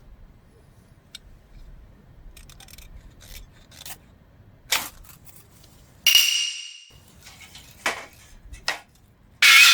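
Scattered knocks and clicks of objects being handled, with two loud metallic clanks that ring for most of a second, one about six seconds in and one near the end.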